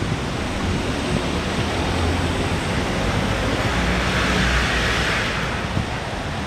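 Street traffic on a wet road, with wind rumbling on the phone's microphone. A vehicle's tyre hiss swells and fades about four to five seconds in.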